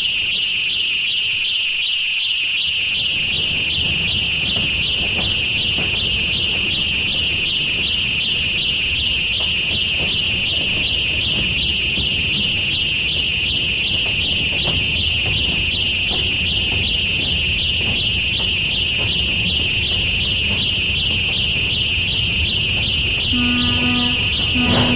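A steady, high-pitched alarm-like ringing runs throughout over a low train rumble that builds after a few seconds. Near the end a diesel locomotive horn sounds in short blasts.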